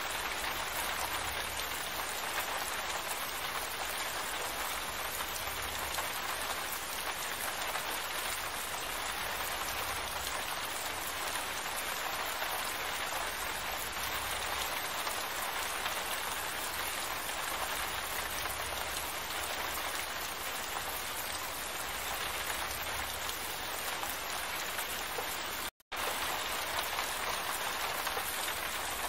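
Steady rain falling, an even hiss of drops without letup. Near the end the sound cuts out to silence for a split second, then resumes.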